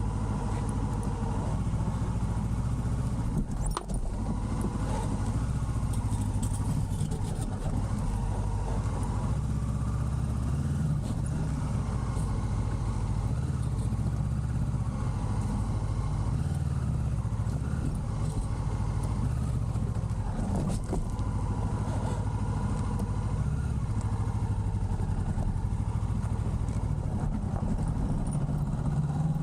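Honda CB500 parallel-twin motorcycle engine running at a steady speed while being ridden, with a steady rush of wind. The sound briefly dips about four seconds in.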